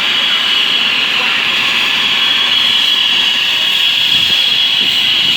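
RAF helicopter's turbine engine and rotors running steadily during warm-up before take-off: a constant high-pitched whine over a steady rush.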